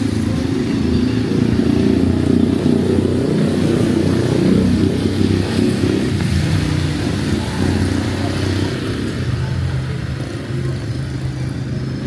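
Motor vehicle engine running close by on a city street, fairly steady, easing off a little near the end.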